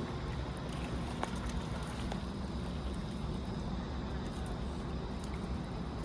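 Steady rushing of a fast-flowing river, with a few faint clicks.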